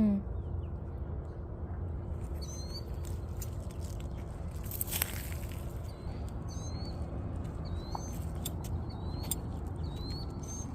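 A bird repeating a short, high chirp that rises at the end, about once a second, over a steady low rumble. A brief whoosh cuts in about halfway through.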